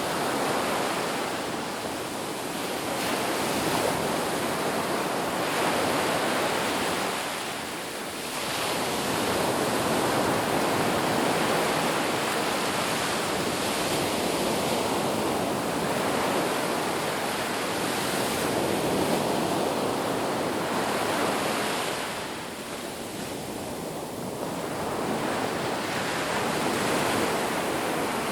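Ocean surf washing on a beach, a steady rush that swells and eases slowly, with brief lulls about eight seconds in and again near twenty-three seconds.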